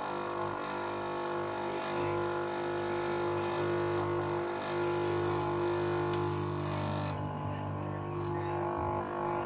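Capsule coffee machine's pump humming steadily as it pushes water through the capsule into the cup.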